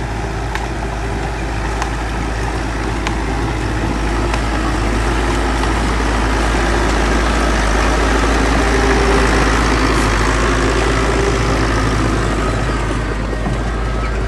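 Heavy diesel earthmoving machinery running steadily, its engine note building to a peak a little past the middle and then easing off.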